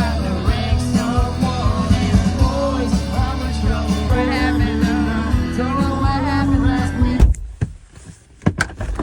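Live rock band playing with a singer, a steady bass and drum beat under the vocal line. The music cuts off abruptly about seven seconds in, leaving a few sharp knocks and clicks.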